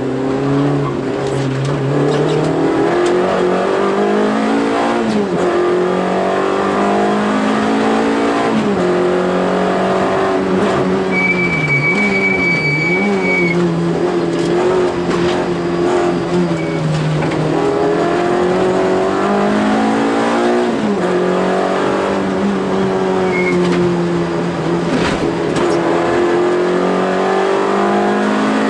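Peugeot 205 rally car's engine, heard from inside the cabin, revving hard and dropping back again and again through gear changes and lifts for corners, with the tyres squealing for about two seconds near the middle.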